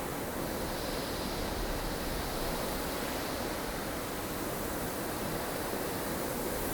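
Snowstorm wind ambience: a steady, even rush of strong wind with no single gusts or other sounds standing out.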